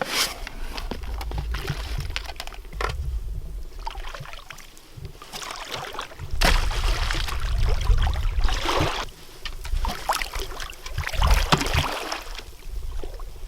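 Water sloshing and splashing as duck decoys are set out in shallow marsh water, in uneven surges with a louder splash about six and a half seconds in and more near nine and eleven seconds, over a low rumble.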